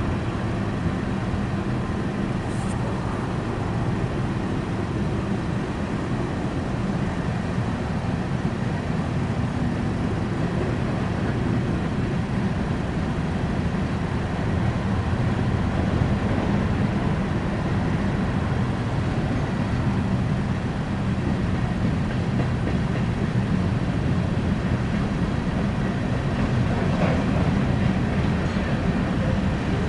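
Empty coal cars of a BNSF freight train rolling past, a steady rumble of wheels on rail.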